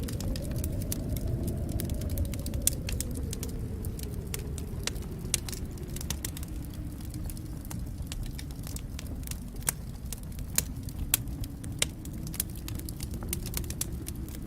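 Wood fire crackling in a fireplace: a steady low rumble of flames with frequent sharp snaps and pops, a handful of them louder than the rest.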